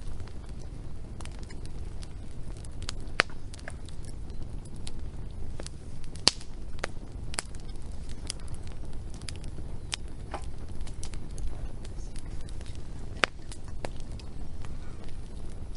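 Wood fire crackling, with irregular sharp snaps and a few louder pops, the loudest about six seconds in, over a low steady rumble.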